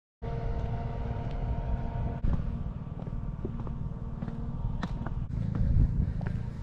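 Low steady rumble of a vehicle in motion, with scattered small clicks and ticks; a faint steady hum sounds under it for the first two seconds.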